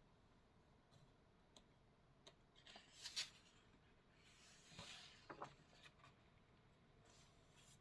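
Faint paper handling: a few light ticks, then a short rustle about three seconds in and another softer rustle around five seconds in.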